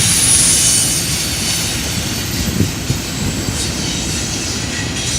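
Union Pacific freight train rolling past at speed: a steady rumble and clatter of cars on the rails, with a thin high wheel squeal over the first second or so.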